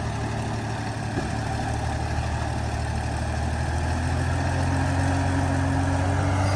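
An engine running steadily, its pitch and loudness creeping up slightly over the last couple of seconds.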